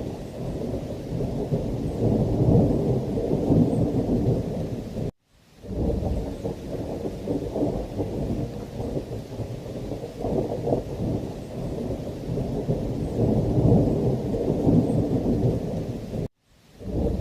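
Heavy rain with thunder rumbling in slow swells. The sound cuts to silence for a split second twice, about five seconds in and near the end.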